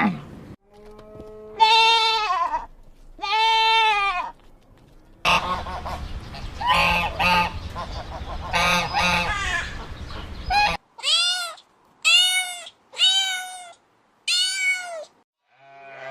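A run of short farm-animal calls from separate clips: two calls near the start, a noisier stretch of calls in the middle, then four short, evenly spaced, high calls near the end.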